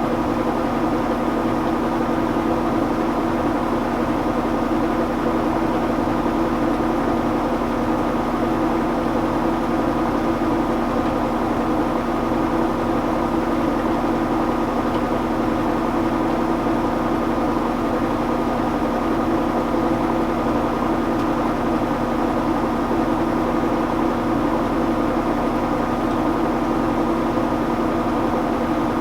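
Admiral (Whirlpool-built) belt-drive top-load washing machine in its final high-speed spin: a steady hum with several constant tones from the motor, belt drive and spinning basket, holding an even speed.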